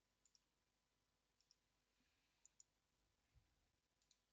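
Faint clicks from a computer mouse or keyboard, coming in quick pairs four times over near silence.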